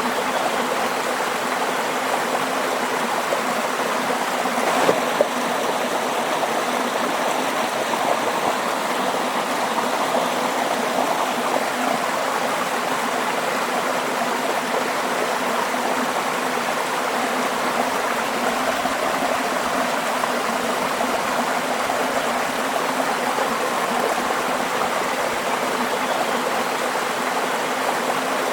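Stream water flowing steadily over stones, an even rushing babble, with a short sharper click or splash about five seconds in.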